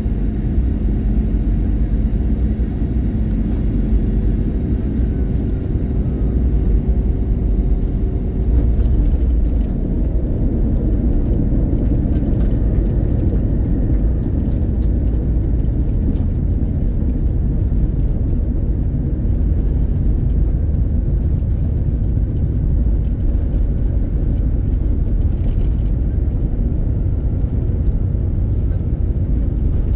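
Cabin noise of an Airbus A321-111 taxiing after landing: a steady low rumble of the CFM56 engines at low thrust and the wheels rolling on the taxiway. A steady engine tone fades out about eight seconds in.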